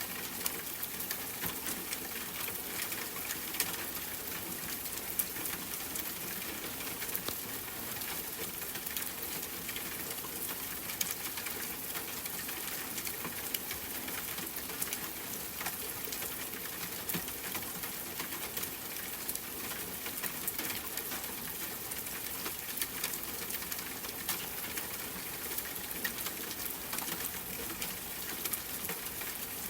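Steady rain pattering, with many single drops ticking sharply throughout.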